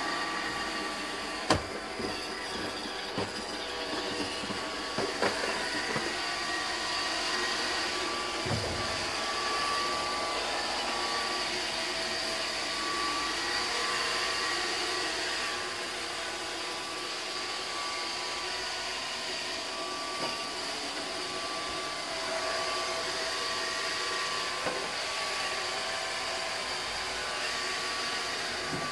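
iRobot Roomba 620 robot vacuum running with a steady whirring hiss and a thin whine, with several sharp knocks in the first few seconds.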